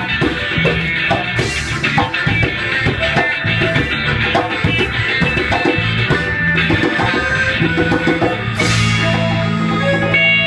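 Live band playing an instrumental passage: busy drumming over bass and guitar, then a cymbal crash and a held chord near the end.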